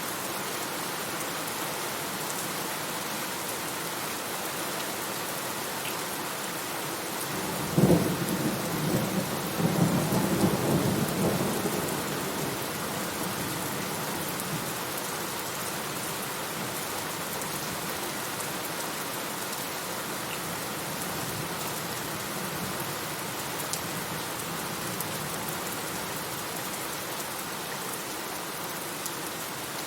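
Steady heavy rain hissing, with a sharp thunderclap about eight seconds in that rolls on as rumbling for a few seconds before fading back into the rain.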